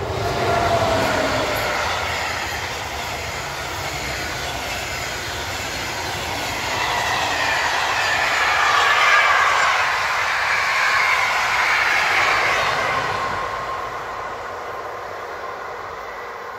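Electric locomotive hauling a train of passenger coaches passing at speed: a rushing rumble of wheels on the track, loud as the locomotive goes by about a second in and again through the middle as the coaches pass, then fading as the train draws away.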